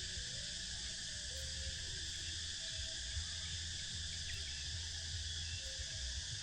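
Steady chorus of insects outdoors, an even unbroken high-pitched drone, over a low rumble.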